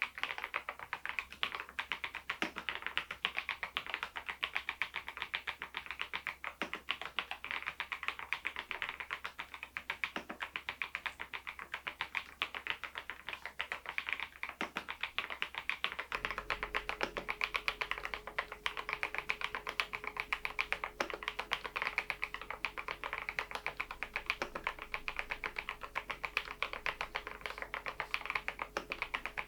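Steady, continuous typing on a Machenike K500 PRO mechanical keyboard fitted with Adelie V2 switches: a dense stream of key clicks and bottom-outs with no pauses.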